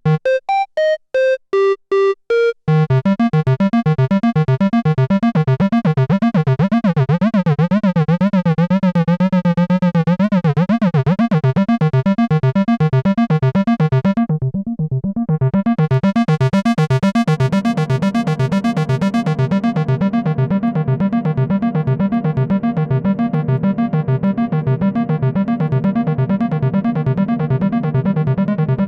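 Moog Grandmother analog monosynth running its arpeggiator. It opens with a few short, separated notes, then settles into a continuous fast arpeggio. About halfway through, the filter closes and the tone goes dark for a moment, then the filter opens up bright again.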